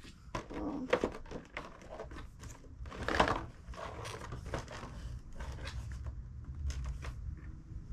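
Toy packaging handled and pulled open: a run of small crackles and rustles, with a louder rustle about three seconds in.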